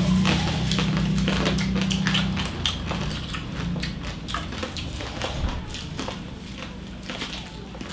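Close-up crunching and chewing of crispy lechon (whole roast pig) skin: many sharp, crackly bites one after another. A low steady hum runs under the first two seconds or so.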